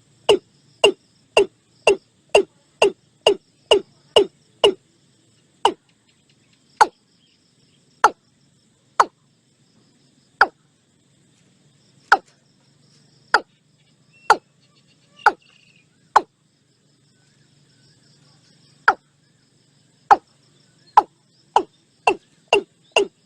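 Watercock calling: a series of short, low notes, about two a second at first, spacing out to about one a second or slower through the middle with a pause of a couple of seconds, then quickening again to about two a second near the end.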